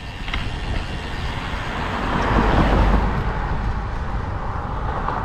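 A car passing on the road, its noise swelling to loudest about halfway through and then easing, over a steady wind rumble on the microphone.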